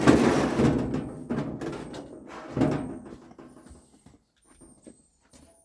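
Clattering and scraping as the stripped metal microwave oven shell is handled and shifted. The sound is loudest at the start, comes again about two and a half seconds in, then dies away into a few light knocks.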